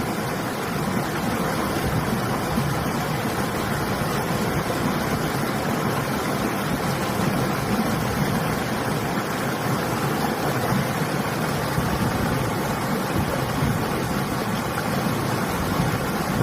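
River water rushing steadily, with winter wind blowing over it, making an even, unbroken noise.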